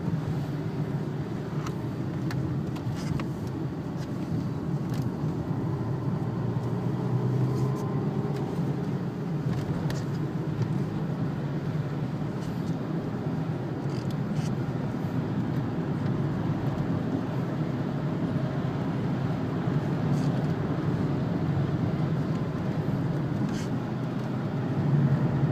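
Steady in-cabin drone of a Renault Laguna wagon with a 2-litre turbo diesel, cruising slowly, with tyre noise on a very wet track surface.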